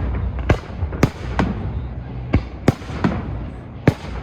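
Aerial fireworks bursting: about seven sharp bangs at uneven intervals over a steady low rumble.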